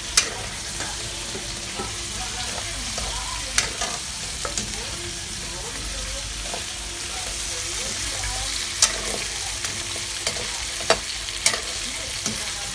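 Pork and tofu cubes frying in a wok with a steady sizzle. A metal spatula stirs them, clanking sharply against the wok several times.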